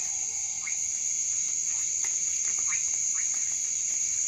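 Rainforest night chorus: a steady high-pitched insect drone, with frogs giving several short chirping calls through it.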